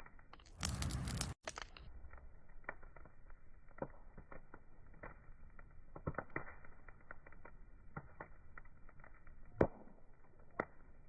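Wood fire crackling, with irregular small pops and a couple of sharper pops near the end. About half a second in, a brief louder rush of noise cuts off suddenly.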